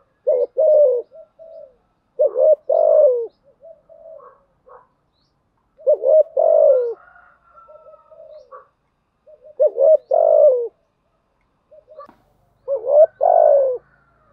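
Spotted dove cooing: a decoy bird's calling phrases, used to lure and provoke wild doves. A loud phrase of a few low notes comes about every three to four seconds, five times, with softer notes in between.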